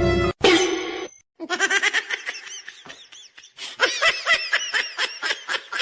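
Intro music cutting off, then a person laughing in quick, high-pitched bursts, several a second.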